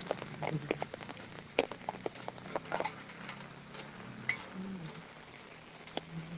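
Rain falling in scattered, irregular drops that patter and tick on hard surfaces, over a low murmur of distant voices.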